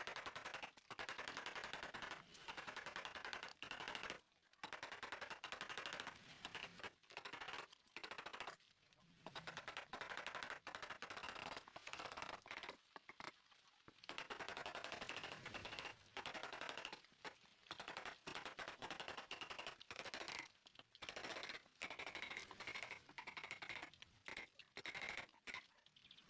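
Hand or power tool working wood with a rapid rattling, scraping sound, in bursts of one to two seconds separated by short pauses.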